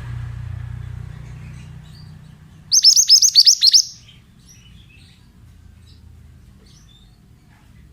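A mantenan songbird singing one quick burst of about eight rapid, high notes, each sweeping downward, about three seconds in and lasting about a second, with faint scattered chirps after it. A low rumble fades out over the first two seconds.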